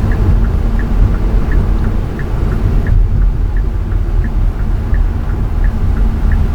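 Car cabin with a steady low road and engine rumble, and the turn signal ticking evenly about three times a second.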